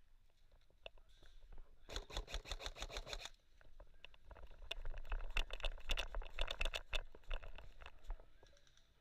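Airsoft rifle firing on full auto: a short burst of rapid, evenly spaced shots about two seconds in, then a longer, louder burst from about four seconds to near the end.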